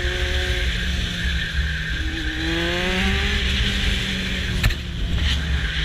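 Motorcycle engine running under a steady hiss of wind on the microphone, its pitch climbing as it accelerates about two seconds in. A sharp click near the end.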